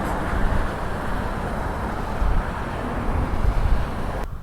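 Jet airliner engine noise: a steady, loud low rumble that cuts off abruptly near the end.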